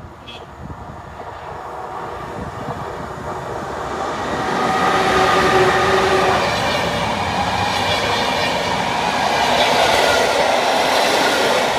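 An EU160 electric locomotive and its passenger coaches passing at speed. The rumble of wheels on rails grows loud about four seconds in and stays loud, with a few steady tones above it.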